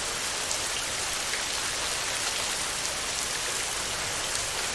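Steady rain on a tin roof: a dense, even hiss with scattered ticks of single drops.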